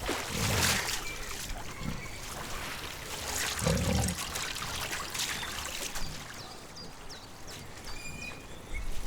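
Wild boars wallowing and splashing in water, with two short low grunts, one about half a second in and a louder one near four seconds.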